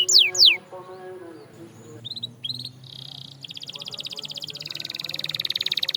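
Canary singing: a few quick falling whistled notes, a quieter pause with short chips and one held note, then a very fast rolling trill that starts about three and a half seconds in and grows louder.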